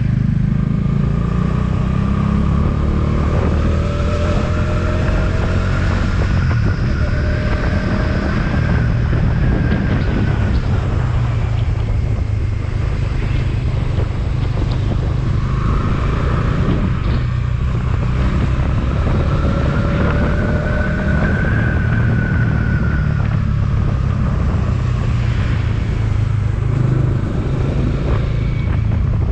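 Motorcycle riding on a road: a steady, loud low rumble of engine and road, with an engine whine that rises and then falls in pitch twice.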